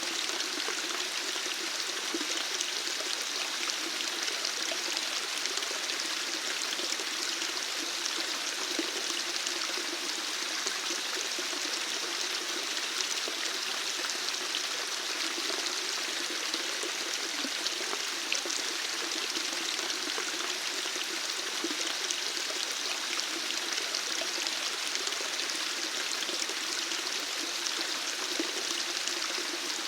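Running water, flowing steadily and evenly without a break.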